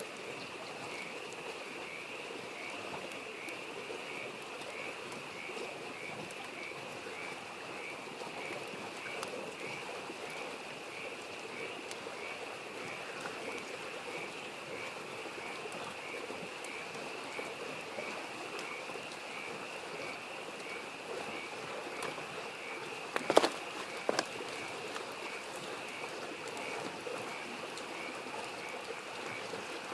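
Frogs calling in a steady, rhythmic chorus of about two pulses a second over the even rush of a mountain stream. A campfire crackles faintly throughout, with two sharp pops about a second apart roughly three-quarters of the way through.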